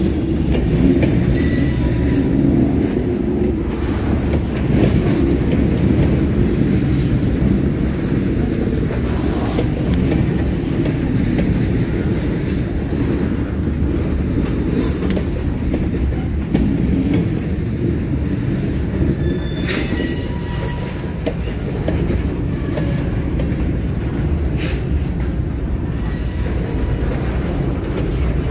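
Freight train cars, covered hoppers, rolling past close by: a steady rumble of steel wheels on rail, with brief high-pitched wheel squeals about a second in, around two-thirds of the way through and again near the end.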